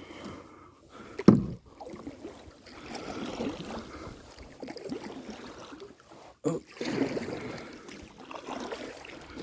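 Kayak paddle strokes dipping and splashing in the water, with a sharp knock about a second in that is the loudest sound.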